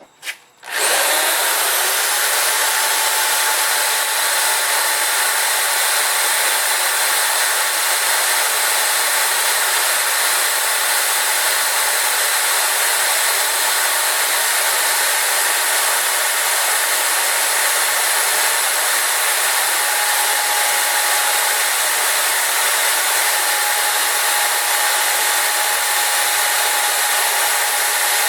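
Electric drill starting with a couple of brief trigger blips, then running steadily at full speed with a high whine, drilling a bolt hole through a skid plate; this hole is the toughest part of the installation.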